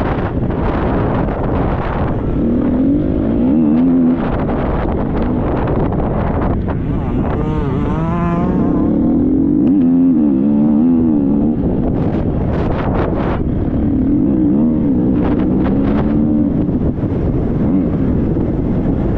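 Triumph 250 motocross bike's single-cylinder engine revving up and down over rough ground, heard from the rider's helmet, with wind rushing over the microphone and occasional knocks from the bike.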